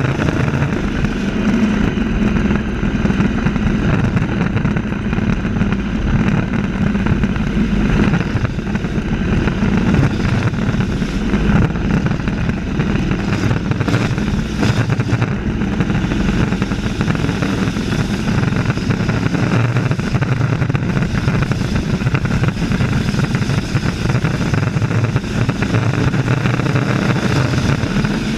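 Race truck engines running hard at racing speed on an oval track, a loud, steady engine drone with no break.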